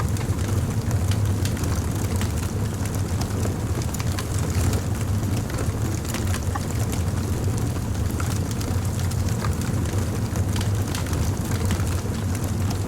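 A fire crackling steadily: irregular small pops and snaps over a constant low rumble.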